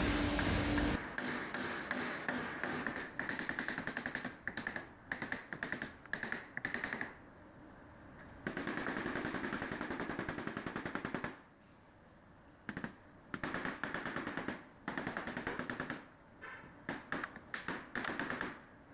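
Rapid light tapping on a dented car door panel, in bursts of many quick strokes with short pauses between them: a dent being worked out of the bodywork. A steady hum stops about a second in.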